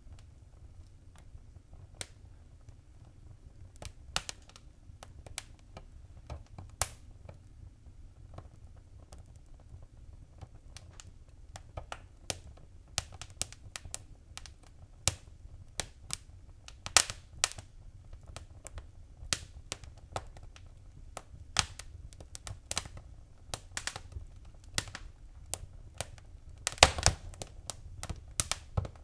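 Wood fire in a fireplace crackling, with irregular sharp pops and snaps over a low steady rumble of the flames. The pops come more often in the second half, with a brief cluster of loud crackles near the end.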